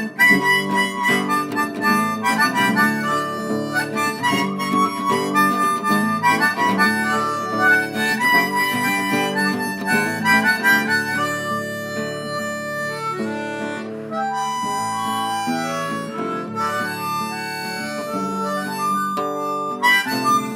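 Harmonica playing a melody over guitar chords, the instrumental outro of a folk song.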